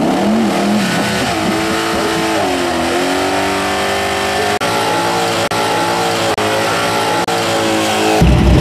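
Camaro drag car's engine held at high revs during a smoky burnout, its pitch dipping and climbing back about three seconds in. Near the end it cuts suddenly to a louder, deeper engine sound.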